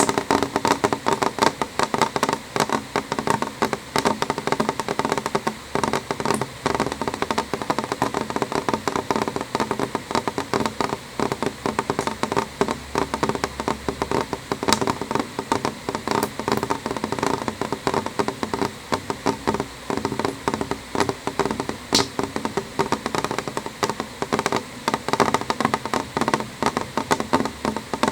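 Steady rain on a window: countless drops tapping on the glass in a dense, irregular stream that does not let up.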